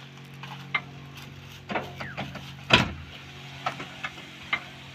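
Diesel engine running steadily, with a handful of short knocks and clanks, the loudest nearly three seconds in.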